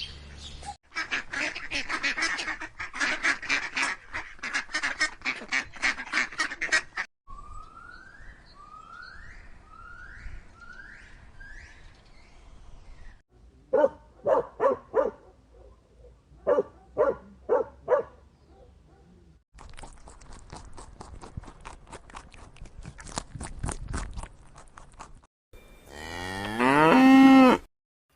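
A run of different animal calls one after another: a spell of dense chattering noise, five short rising calls, groups of short nasal honks like geese or ducks, more chattering, and near the end a long falling moo from a cow.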